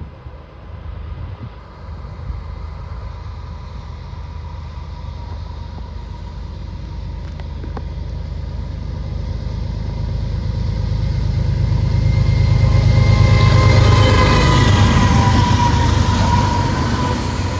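Diesel locomotives leading a heavy CSX freight train approach and pass, working upgrade, their deep engine rumble building steadily to a peak about three-quarters of the way through, with a high steady whine coming in as they go by.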